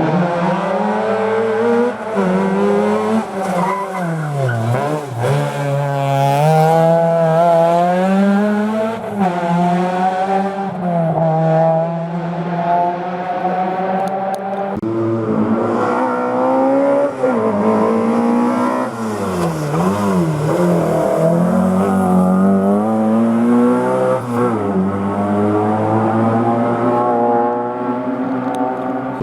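Historic rally car engines working through a hairpin: the revs drop away on the way into the bend, then climb again in steps through the gears as the cars accelerate out. It happens twice, a second car following about halfway through.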